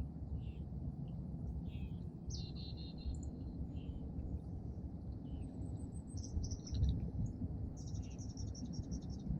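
Small songbirds chirping at a feeder: scattered short, high chirps, with a quick run of repeated notes near the end, over a steady low rumble.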